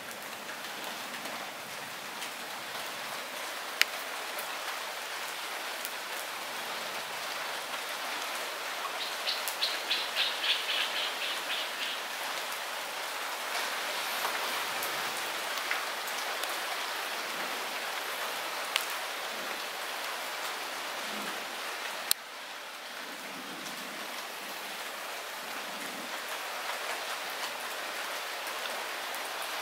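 Light rain falling steadily, with a few sharp single drop impacts close by. A short, rapid high-pitched trill sounds about ten seconds in.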